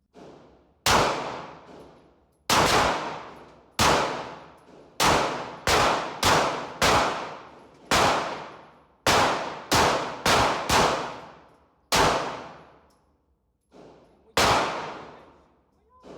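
Semi-automatic pistol fired about fifteen times at an uneven pace, from quick pairs to gaps of two seconds. Each shot is followed by a ringing echo that dies away over about a second.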